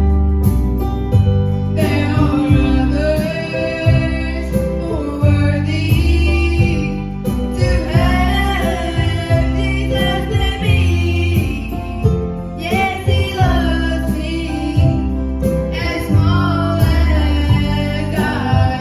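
Gospel song performed by singers with instrumental accompaniment: sung melody lines over a steady bass and backing.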